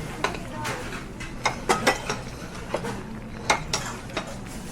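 Cutlery clinking against plates and bowls, a string of irregular sharp clinks as fish is picked apart at the table.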